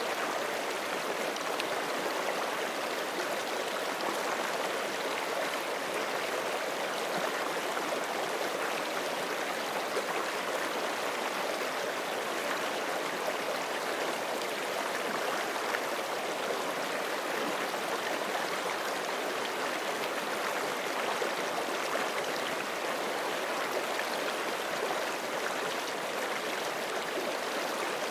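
Forest creek flowing steadily over rocks: an even, continuous rush and babble of water with no other sound standing out.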